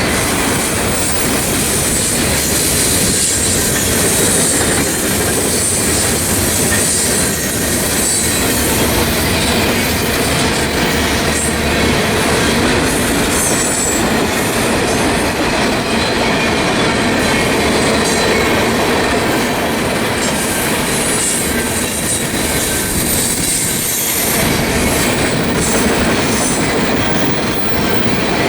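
Freight train cars rolling past on the rails: a steady, loud rumble and clatter of steel wheels on track, with a thin, high wheel squeal in the first half.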